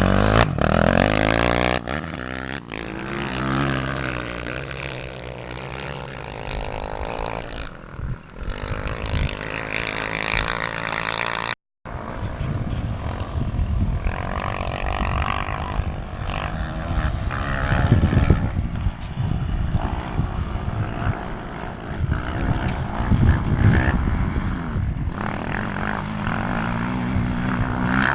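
Off-road racing motorcycle engine running hard, its pitch rising and falling as the throttle opens and closes, mixed with rushing wind and rough-terrain noise. The sound cuts out for a split second just before the middle.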